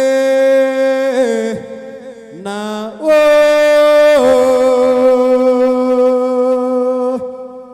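A solo voice chanting long, drawn-out notes: two shorter held notes, then one held for about four seconds that steps down slightly partway through.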